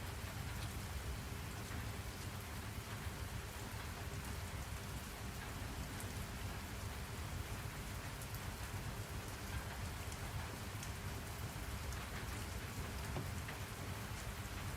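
Steady rain falling, an even hiss with a constant low rumble beneath it and scattered light drop ticks.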